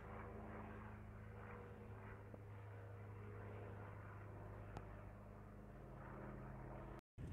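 An engine running steadily, a faint low hum, cut off by an edit near the end.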